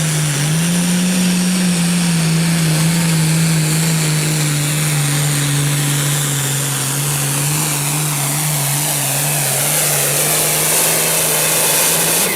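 Limited Pro Stock pulling tractor's turbocharged diesel engine running flat out under load down the track. Its pitch dips briefly near the start, then holds steady, with a loud high whine and hiss over it.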